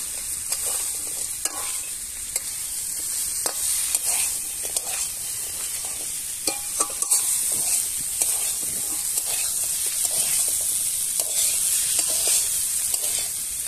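Crab pieces and potatoes in spice paste sizzling in oil in a metal wok while a metal spatula stirs them, scraping and tapping against the pan at irregular moments: the masala being dry-fried with the crab before any water goes in.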